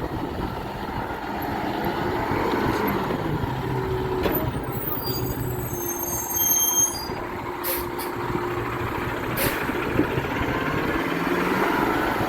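Garbage truck engine running steadily, with a brief high-pitched squeal from about five to seven seconds in and a couple of short clicks after it.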